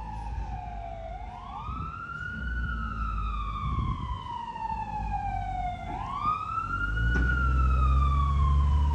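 Fire apparatus siren wailing: the pitch falls slowly, then sweeps quickly back up, twice. Under it a heavy vehicle engine rumbles, louder from about seven seconds in as the apparatus comes closer.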